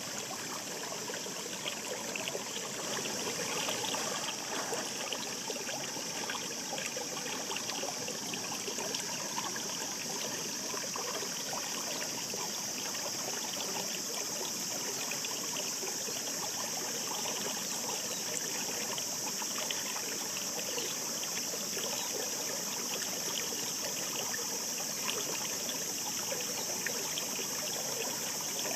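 Shallow stream babbling: a steady rush of water with many small gurgles and splashes throughout.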